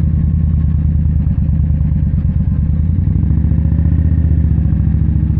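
2017 Indian Scout's V-twin engine running at steady, low revs, with even firing pulses.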